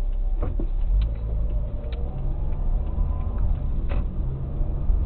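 Car engine and road noise: a steady low rumble with a few faint clicks.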